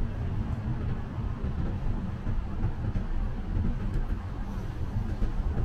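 Train running, heard as a steady low rumble.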